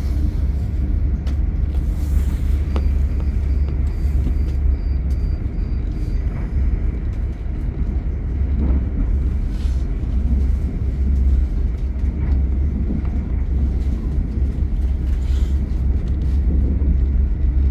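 Steady low rumble of an intercity train in motion, heard from inside the passenger carriage.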